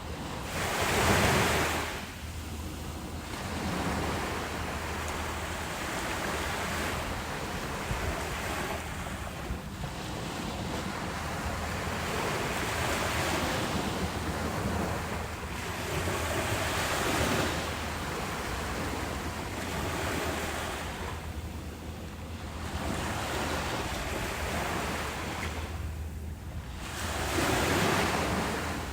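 Ocean waves breaking on a beach, the surf swelling and washing back every few seconds, the strongest breaks about a second in and near the end, with wind on the microphone.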